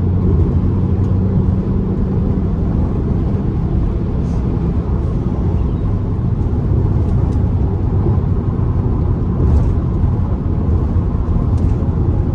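Fiat Bravo T-Jet's turbocharged four-cylinder engine and tyre noise while driving, a steady low drone with no clear rise in pitch.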